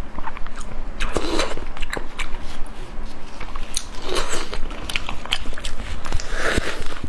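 Close-miked eating: a person biting and chewing food, with many short clicks and smacks and louder bites about a second in, at about four seconds and again near the end.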